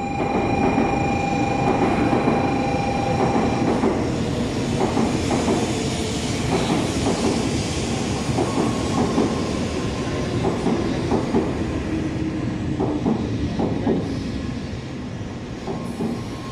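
A Shinkansen bullet train pulling into the station along the platform: a steady rushing rumble of wheels and air, with a steady high whine for the first few seconds, easing slightly as the train slows.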